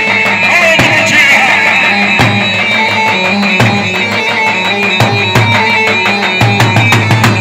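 Iraqi choobi dance music: a held, reedy-sounding melody over fast, dense drum strikes.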